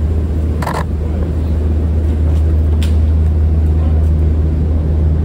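A large SUV's engine idling close by, a steady loud low hum. A short sharp sound comes about a second in and a fainter click near the middle.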